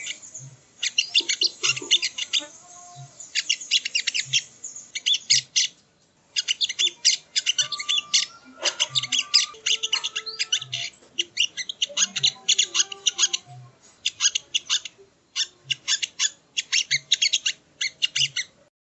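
Sogon (sogo ontong) bird song: rapid chattering phrases of sharp, high notes, each a second or two long, repeated with short pauses. A faint low pulse beats steadily underneath, about one and a half times a second.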